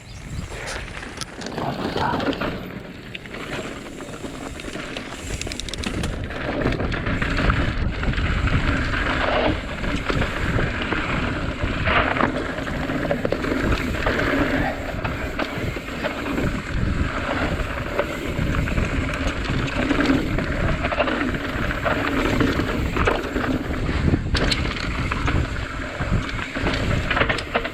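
Santa Cruz Tallboy mountain bike being ridden down a rough trail: tyres rolling over dirt and rocks with the bike rattling and clattering over the bumps. The noise builds over the first few seconds as the bike picks up speed, then stays loud and uneven.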